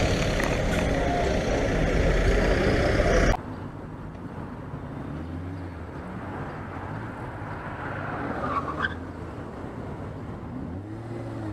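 Car engine and road noise: a loud, dense rush that cuts off abruptly about three seconds in, then a quieter steady engine hum, with the engine's pitch rising near the end as it speeds up.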